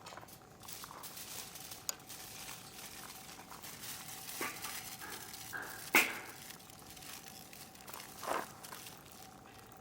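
Wood fire crackling in a fire pit, with scattered sharp pops, the loudest about six seconds in.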